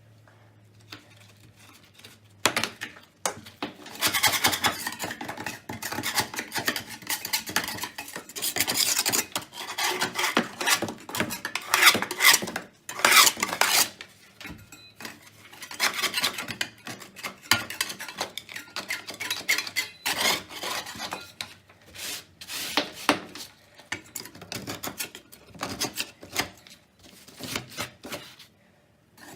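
Vigorous hand scrubbing and scraping against a hard surface, with irregular rasping strokes and small metallic clinks. It starts about two and a half seconds in and comes in uneven bursts.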